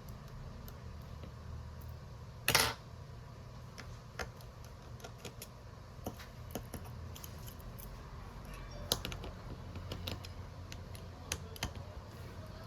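Scattered small clicks and taps of hand tools and phone parts being handled at a repair bench, with one louder, brief clatter about two and a half seconds in, over a low steady hum.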